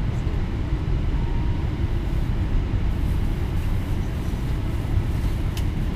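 Steady low rumble from a Boeing 777-300ER airliner on the ground around pushback, even throughout with no separate events.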